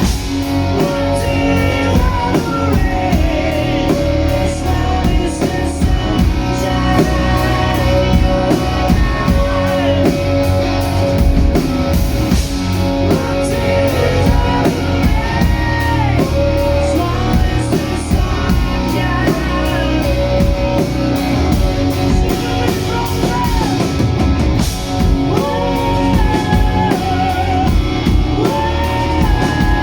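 Live rock band playing: electric guitars over a drum kit keeping a steady cymbal beat, with a lead melody line wavering above them.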